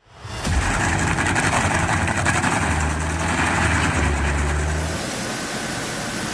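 An engine running steadily, fading in at the start; the sound changes and becomes a little quieter about five seconds in.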